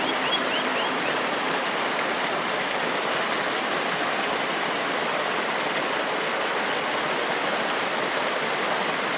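Forest waterfall: a steady rush of water cascading over rocks. A bird gives short runs of high, quick chirps near the start and again about three to four seconds in.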